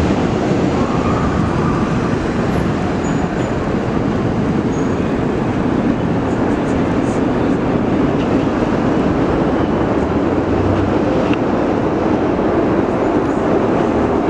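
Chicago 'L' train running on the elevated tracks: a steady rumble of wheels on rail that holds at one level.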